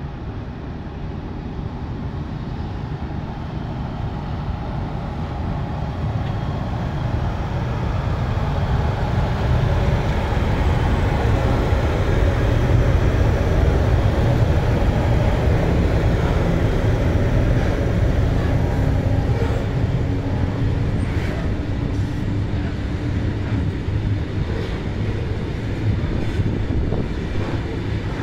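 Freight train departing behind two Rc-class electric locomotives: a low rumble builds to its loudest about halfway as the locomotives pass close. Then hopper wagons roll by with a steady rumble and light, sharp clicks from the wheels on the rails.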